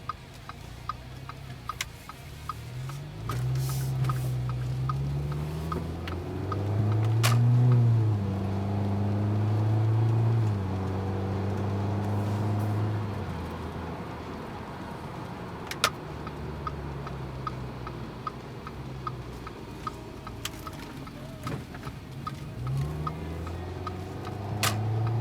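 2012 Audi A4 2.0-litre turbocharged four-cylinder running through a turbo-back stainless steel dual exhaust with a high-flow cat while the car is driven. The engine note climbs under throttle and is loudest about a third of the way in, then settles to a steadier, lower cruise before picking up again near the end. A regular light ticking and a few sharp clicks sit over it.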